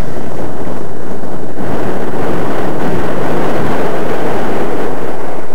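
Strong gusty wind buffeting the microphone: a loud, rough rumble with no clear tone, from wind gusting 25-35 knots.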